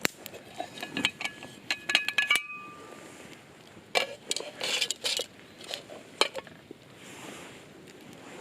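Metal camp cookware and utensils clinking and clattering. A quick run of strikes about two seconds in leaves short ringing tones, and there is more handling and clatter a couple of seconds later.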